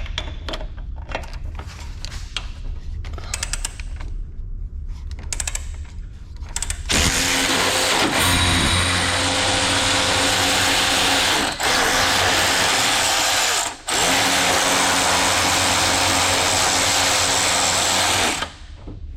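Light clicks and tool handling, then about seven seconds in a handheld power tool starts running loudly on a suspension bolt, with two brief stops, for about eleven seconds before cutting off.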